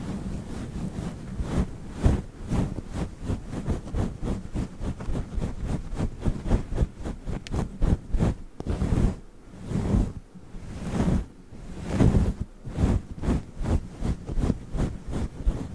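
Fluffy microphone windscreen being rubbed and brushed right on the microphone: a fast, uneven run of soft rustling strokes with a deep rumble, easing off briefly a little past the middle.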